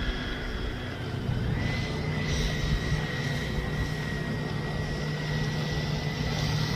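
Twin 80mm electric ducted fans of a Freewing MiG-29 RC jet giving a steady high whine, its pitch stepping up slightly about a second and a half in. Strong wind rumbles on the microphone underneath.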